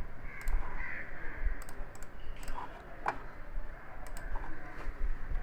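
Computer mouse clicking a few times, scattered and irregular, over a low background rumble.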